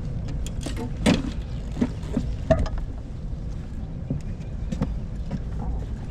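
Handling noise in a fishing boat: several sharp knocks and taps, the loudest about a second in and again halfway through, over a steady low rumble.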